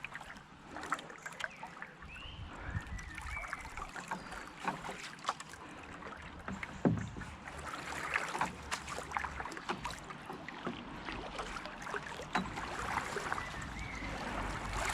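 Kayak paddle strokes dipping and splashing in the water in a steady run, with small knocks of the paddle, the loudest one about seven seconds in.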